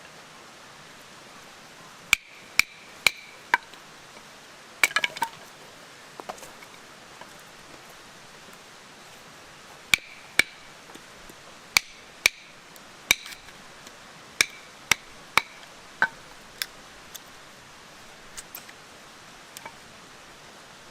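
Sharp metallic knocks, each with a brief ring, in runs of two to four about half a second apart with pauses of a few seconds between runs.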